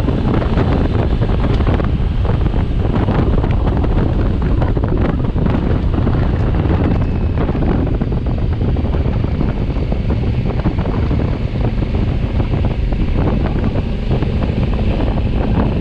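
Heavy wind noise buffeting the microphone at riding speed, with the 2020 Honda Africa Twin's parallel-twin engine running underneath.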